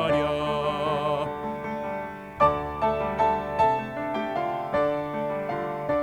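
A baritone holds the final word of a sung phrase with vibrato over piano accompaniment, then the piano plays an interlude alone with a series of distinct notes.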